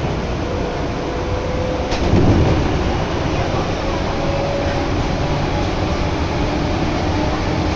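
Tokyu Den-en-toshi Line train running, heard from inside the car: a steady rumble of wheels on rail with a faint motor whine that rises a little as the train picks up speed. About two seconds in there is a click and a brief louder rush.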